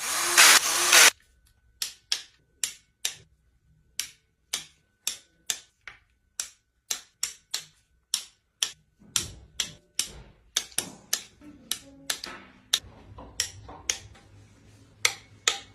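A power tool runs in quick pulses and stops about a second in, followed by a series of sharp metallic clicks, about two a second, from hand tools working on the engine during timing-chain reassembly.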